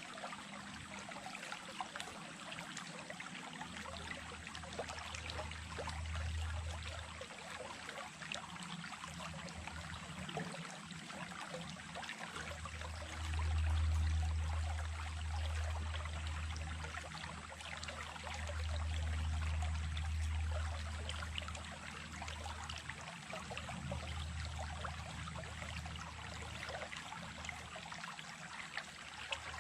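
Small stream running and trickling over stones, a steady rush of water full of little splashes, with low rumbles coming and going underneath.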